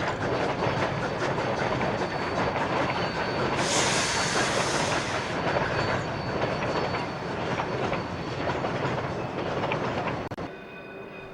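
A narrow-gauge train running, its wheels clattering over the rails. About four seconds in, a hiss comes in for a second and a half. Near the end it drops abruptly to a much quieter background with a faint steady hum.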